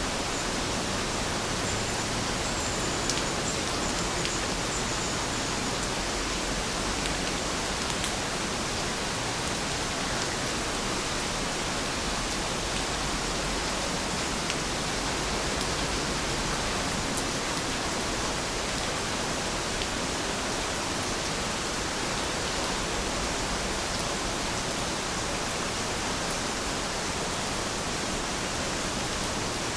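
Heavy rain falling steadily: an even hiss with scattered faint drop ticks.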